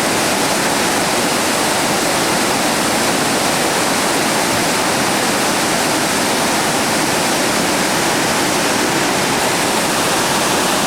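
Steady roar of a big whitewater rapid, the Russell Fork's Tower Rapid, river water pouring and crashing over rocks.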